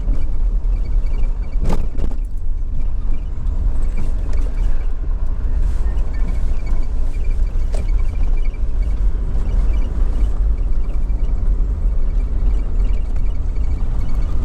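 Vehicle driving slowly on a dirt road: a steady low rumble of engine and tyres, with a couple of brief knocks from bumps, about two seconds in and again near eight seconds.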